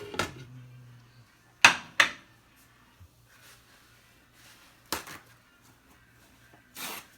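A few sharp knocks and clinks of a plate and utensils: two at the start, two more about two seconds in, one near five seconds, then a short brushing sound near the end.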